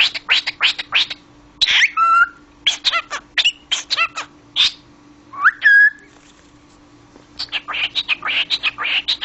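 Cockatiel chattering in quick chirps, with two short whistled notes, the second one gliding upward. The chattering pauses briefly past the middle and then resumes.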